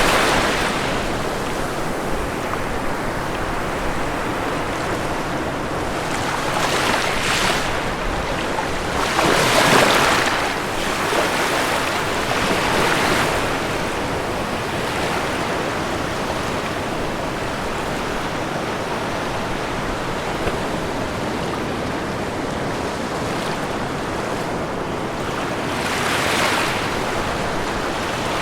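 Ocean waves breaking and washing on a shore, a steady hiss of surf with a few louder breakers about two to four seconds apart in places, then a longer gap.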